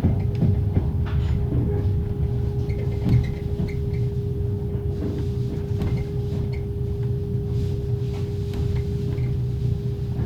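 Passenger railway carriage at low speed, heard from inside a closed sleeping compartment: the carriage's axle-driven generator gives a steady whine over a low rumble, with occasional light knocks and rattles from the car body and running gear.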